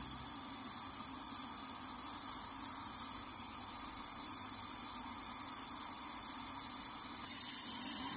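Gas brazing torch flame hissing steadily as it heats a copper-to-steel pipe joint. The hiss gets louder and brighter about seven seconds in.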